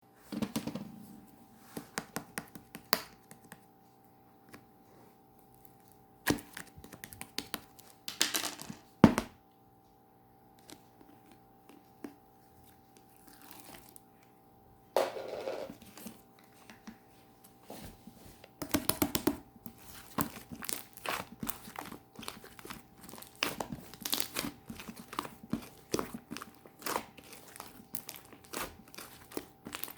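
Cloud slime being pulled and squeezed by hand, making crackly tearing and crinkling sounds with small snaps. It comes in irregular bursts, sparse at first and busier in the second half.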